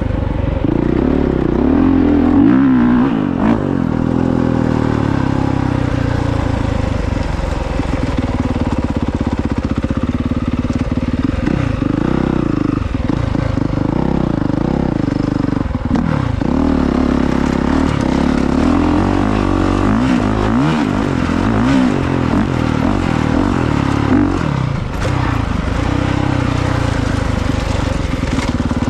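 Honda CRF450R dirt bike's single-cylinder four-stroke engine being ridden hard, revving up and down again and again as the rider works the throttle and gears.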